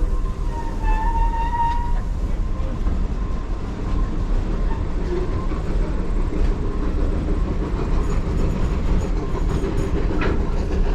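Heritage railroad passenger car rolling slowly along the track, with a steady rumble and rail clatter. A brief high squeal comes about a second in.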